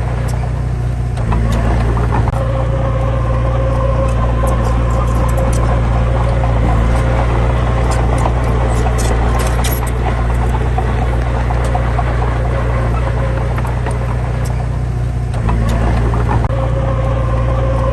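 Heavy diesel engine running steadily, stepping up in level about a second in and dropping back near the end, with scattered light metallic clicks in the middle.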